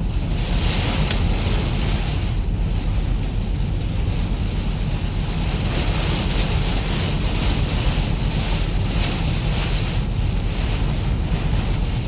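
Wind buffeting the microphone in a steady low rumble, with no break.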